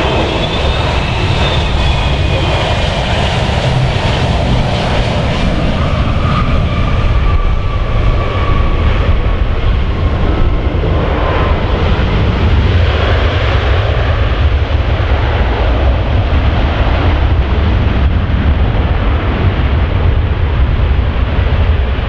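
Boeing 777-200F freighter's twin GE90 turbofans at takeoff thrust: a loud, steady jet rumble, with engine whines falling slowly in pitch as the aircraft passes.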